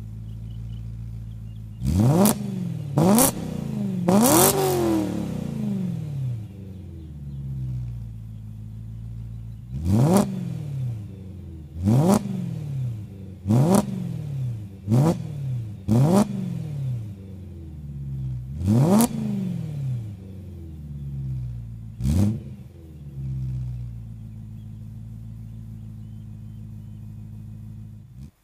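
2008 BMW E90 M3's V8 idling through Magnaflow mufflers and Macht Schnell track pipes, its throttle blipped about ten times, each rev rising quickly and falling straight back to idle, one longer and higher about four seconds in. It settles to a steady idle for the last few seconds before the sound cuts off.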